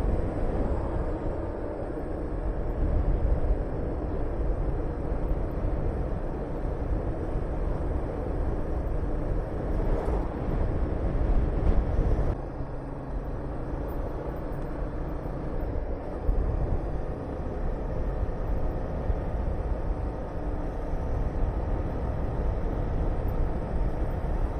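Honda VTR250's 250 cc V-twin engine running under way, with wind rushing over the microphone. A little before halfway the sound swells, then drops suddenly and carries on lower.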